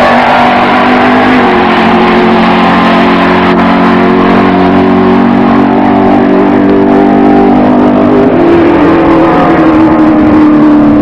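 A drag car's engine running hard down the strip, loud and continuous. Its drone steps in pitch about a second and a half in and again near the end, as the gears change.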